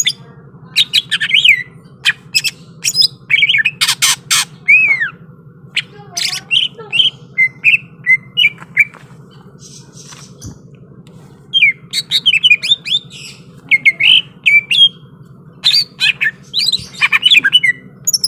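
Cucak ijo (green leafbird) singing hard in quick bursts of sharp chirps, gliding whistles and harsh calls, the aggressive full song of a bird worked up to fight. It pauses for about two seconds midway.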